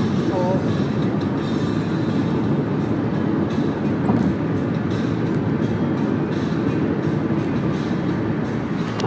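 Steady road and engine rumble inside the cabin of a moving Toyota Camry 2.4.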